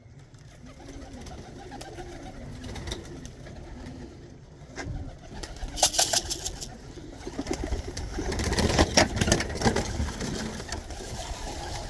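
Tippler pigeons cooing, a run of repeated coo calls, followed from about six seconds in by a louder spell of rustling and clattering that peaks around nine seconds.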